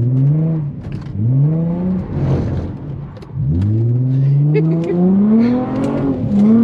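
2004 Infiniti G35 coupe's V6 revving hard with traction control off on a wet road. The engine climbs briefly twice near the start, eases off, then from about three and a half seconds in makes one long climbing pull.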